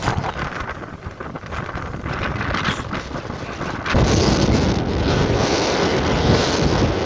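Strong wind buffeting the microphone, a steady rushing roar that gets suddenly louder about four seconds in as a stronger gust hits.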